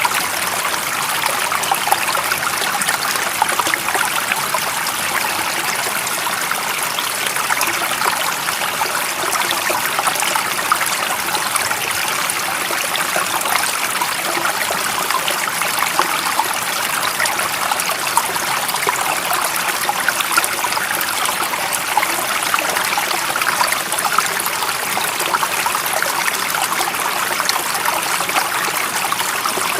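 Running water in a stream, a steady babbling trickle with a fine, bright splashing texture and no change throughout.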